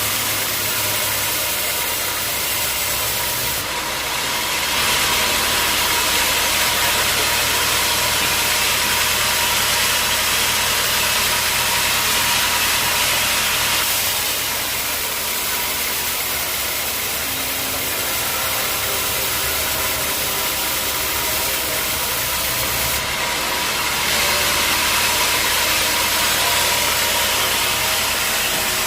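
Sawmill running: a steady engine hum under the hiss of the saw cutting through a hard acacia log. The cutting noise swells about five seconds in and again near the end.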